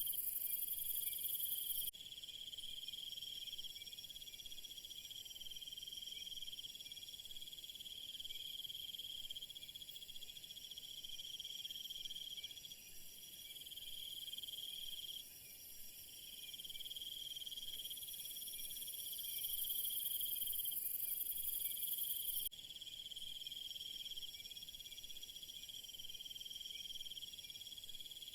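Night chorus of crickets and other insects chirping steadily, with a shrill higher layer that is loud at the start and again for a few seconds past the middle, each time cutting off abruptly.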